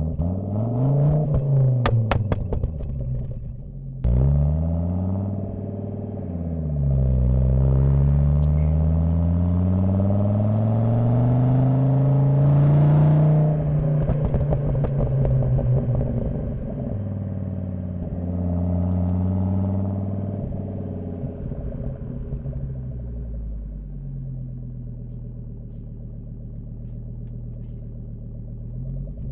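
Volvo 850 T5's turbocharged 2.3-litre inline-five (B5234T3) with a Magnaflow exhaust, heard at the rear bumper, revving up and dropping back several times with short crackles in the first few seconds. About 4 s in the revs drop suddenly, then the engine climbs steadily to a peak about 13 s in. After that it falls away and settles into a low, steady run near idle.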